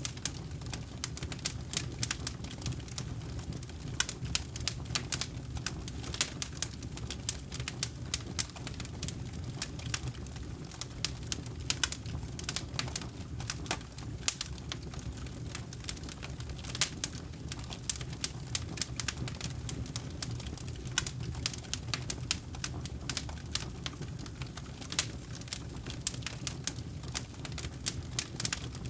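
Campfire crackling: wood popping and snapping in many irregular, sharp little clicks over a steady low rumble of burning.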